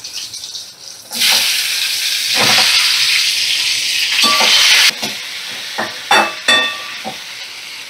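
Chopped Langra mango pieces hitting hot mustard oil in a kadai: a loud sizzle that starts suddenly about a second in and lasts about four seconds, then settles to a softer fry. Several short ringing clinks of a spatula against the pan as the mango is stirred.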